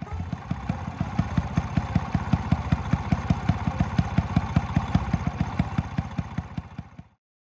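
A small engine idling with an even beat of about six pulses a second, cutting off suddenly near the end.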